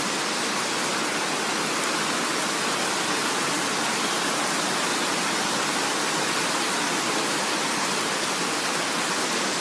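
Heavy rain pouring down, with water overflowing and splashing: a steady, dense hiss that does not change.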